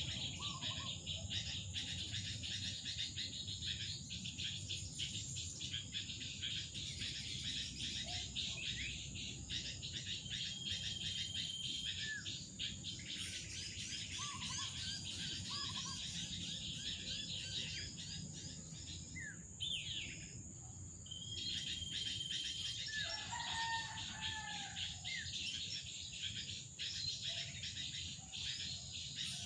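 Forest ambience: small birds chirping and calling in short scattered notes over a steady, high-pitched insect drone.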